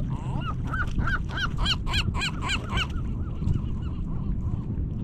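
Gull calling: a quick series of about a dozen yelping notes, growing louder toward the middle and fading out after about three seconds, over steady low background noise.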